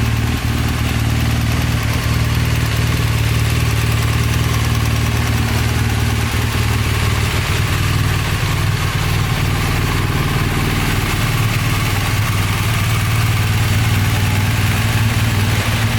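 2015 BMW R1200GS liquid-cooled boxer-twin engine idling steadily.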